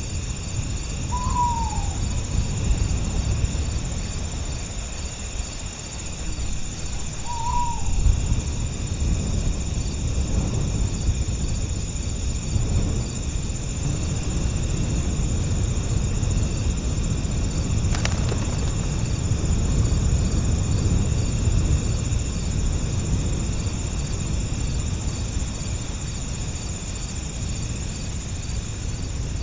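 Summer night ambience: a steady chorus of crickets trilling in several high bands, with a low rumble of breeze. A bird gives two short falling calls about six seconds apart near the start.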